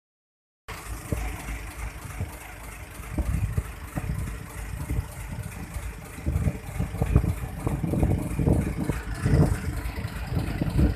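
Small boat's engine running, with uneven low surges in the rumble.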